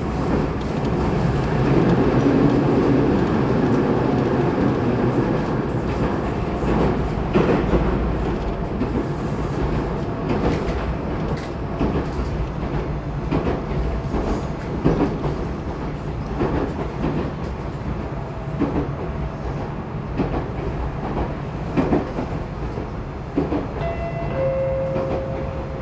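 Running noise inside the motor car of a Tobu 20400 series electric train between stations, a steady rumble with irregular clicks of the wheels over rail joints.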